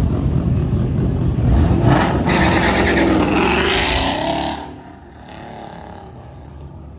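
A loud vehicle engine running close by, rising to a louder revving surge about two seconds in, then dropping off sharply about four and a half seconds in, leaving a quieter background rumble.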